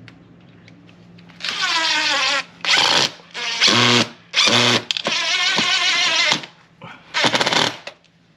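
Power drill driving a long screw into a storm door frame through an extension bit, run in about six bursts of a second or so each, the motor's pitch dropping in the first burst as the screw bites.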